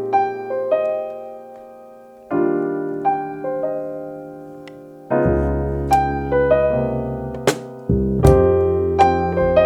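Jazz trio playing: electric keyboard chords struck and left to ring and fade, then about five seconds in the bass and drums come in, with a few sharp cymbal hits over the chords.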